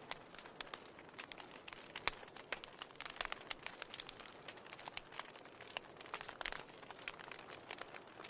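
Wood fire in a fireplace crackling: irregular sharp pops and snaps, several a second, over a steady soft hiss.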